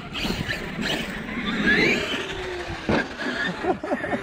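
Large brushless electric RC monster truck driving, its motor whining with a rising pitch as it speeds up. There is a sharp knock about three seconds in.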